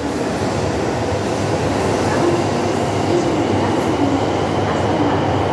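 E3 series Shinkansen cars of a coupled E5/E3 train running past the platform as the train pulls out: a steady rumble and rush of wheels and air that grows a little louder in the first second, then holds.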